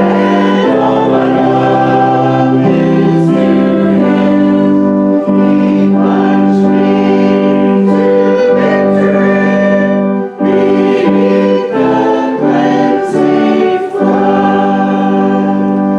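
A congregation singing a hymn together with keyboard or organ accompaniment, in long held notes.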